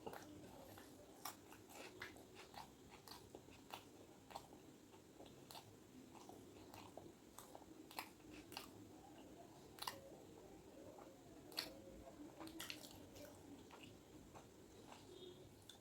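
A person chewing and biting food close to the microphone: quiet mouth sounds with many irregular, sharp, crunchy clicks, a few of them louder than the rest.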